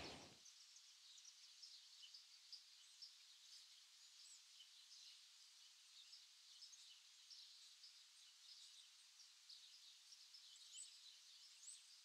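Near silence with faint, scattered high chirps of distant small birds.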